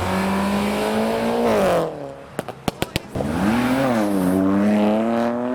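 A modified car's engine pulling hard at steady revs, then dropping off about two seconds in. A quick run of about five sharp bangs follows, then the engine revs up and settles again.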